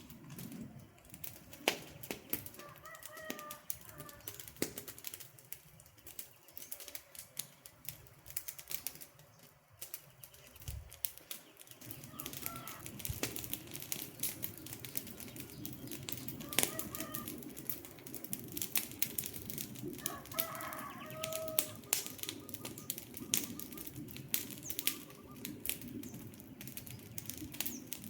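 Wood fire crackling and popping with sharp, irregular snaps, and a low rumble that comes up about twelve seconds in. A few short bird calls sound now and then.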